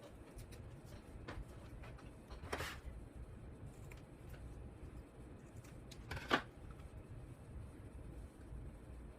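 Light handling noises of small helicopter parts and wiring on a work table: faint clicks and rustles, with two brief sharper clacks about two and a half and six seconds in, the second the louder.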